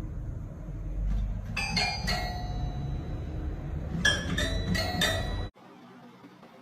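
Bright bell-like ringing strikes in two short clusters about two seconds apart, over a low rumble that cuts off abruptly near the end.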